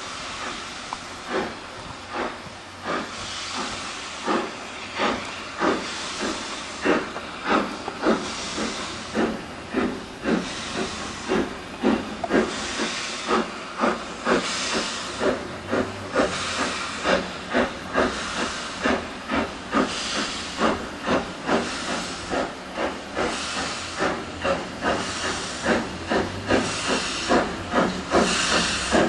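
Steam locomotive working under steam, its exhaust beating about twice a second over a steady hiss of steam. The beats grow louder over the first few seconds.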